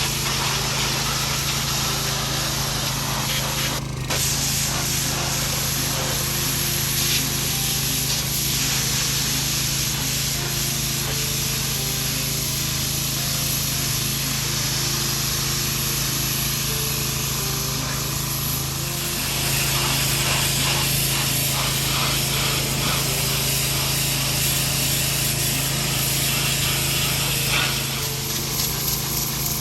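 Pressure washer running steadily, its water jet hissing as it blasts caked moss and dirt off an old Ford 8N tractor. The spray gets louder about two-thirds of the way through.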